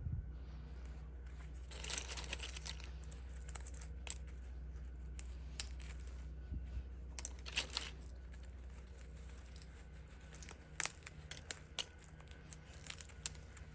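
Scattered sharp clicks and a few short rustling, crinkling sounds over a steady low hum.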